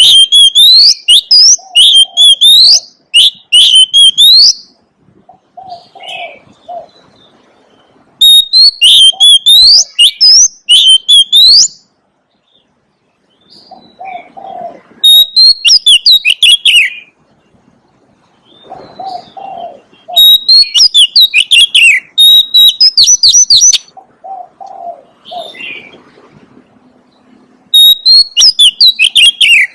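Oriental magpie-robin singing: loud bouts of rapid, varied whistled notes lasting about four seconds each, five times, separated by short pauses. Quieter low calls sound in the gaps between bouts.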